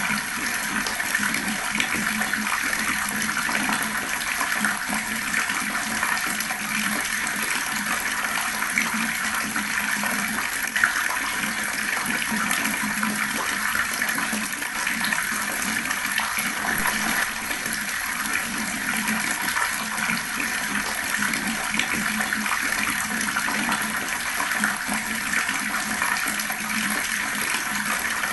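Fast-flowing water pouring in a steady, unbroken rush.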